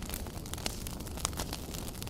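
Wood campfire crackling: scattered sharp pops and snaps over a steady low rumble of the flames, with one louder pop a little past halfway.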